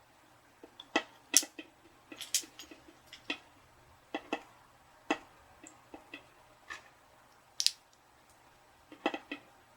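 Irregular sharp clicks and light taps of small tools and parts being handled on a workbench while setting up to resolder a wire, the loudest about a second and a half in and again near eight seconds.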